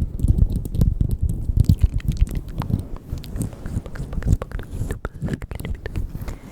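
Close-miked ASMR mouth sounds: many quick wet clicks and smacks over uneven low thuds and rumbling right at the microphone.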